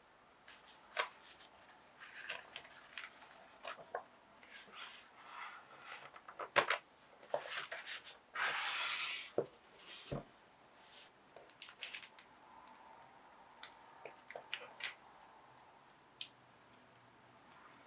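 Small handling sounds: scattered taps and clicks with soft rustling, and a brief rushing, rustling noise lasting about a second around the middle.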